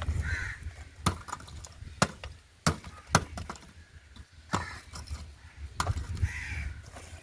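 A series of sharp, unevenly spaced knocks and clicks, with a low rumble underneath.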